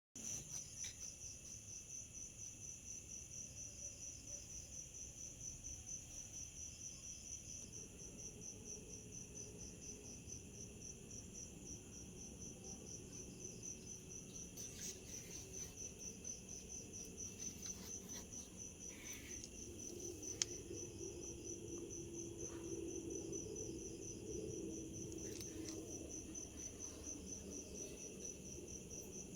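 Insects chirping in a steady, rapid high-pitched pulsing trill that never lets up, with a faint low hum underneath in the second half and a single click about twenty seconds in.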